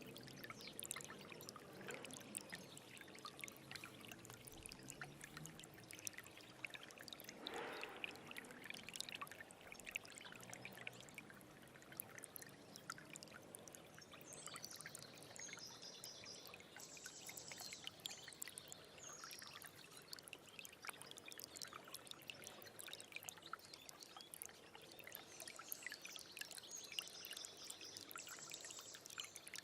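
A small stream running and trickling over stones, a steady rush of water full of tiny splashes. A bird calls high and repeatedly in the background, once around the middle and again near the end.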